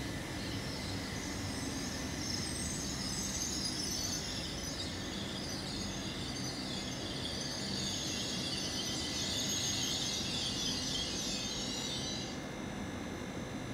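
Hitachi Class 800/802 IET train running slowly through the station: a steady low rumble under a fluttering high hiss that cuts off about twelve seconds in.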